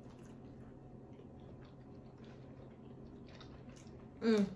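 Faint chewing and wet mouth sounds of someone eating a chicken sandwich, scattered small clicks and smacks over a low steady hum. About four seconds in, a brief loud voice sound cuts across them.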